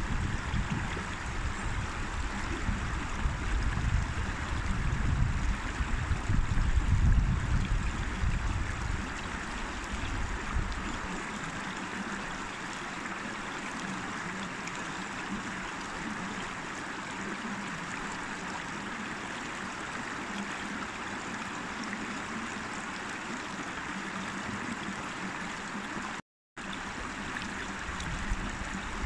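River water running steadily, an even rushing flow. A low rumble sits under it for about the first ten seconds and returns near the end, and the sound cuts out for a moment about 26 seconds in.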